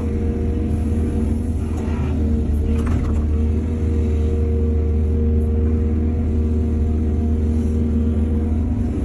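Heavy diesel engine of earthmoving machinery running steadily with a deep rumble, with a short burst of rattling noise about two to three seconds in.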